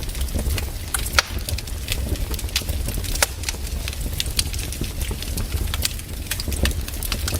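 Wood fire crackling in a fireplace, with irregular sharp pops and snaps, a few a second, over a steady low rumble.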